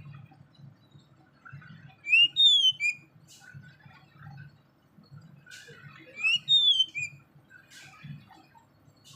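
A small bird calling: two bursts of three quick, high chirps about four seconds apart, with faint low rumbling and a few soft clicks in between.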